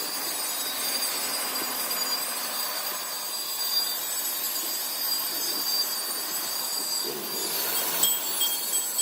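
Steady scraping and grinding from tool work on a tractor tyre's rubber, with high squealing tones and a few sharp scrapes near the end.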